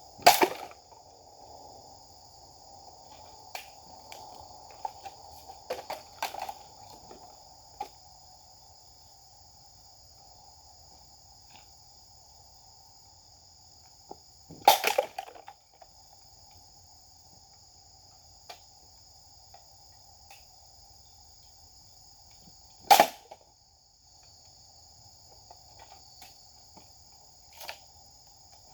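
Three sharp cuts of a Japanese katana striking a target: one at the start, one about halfway, one near the end, each a quick swish and crack, with a few lighter clicks between. Insects drone steadily throughout.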